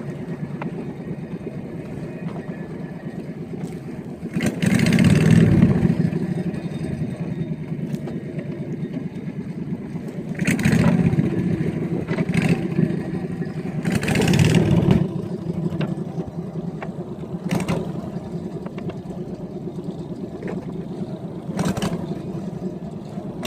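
Small boat's engine running steadily under way, with several louder surges of rushing noise over it.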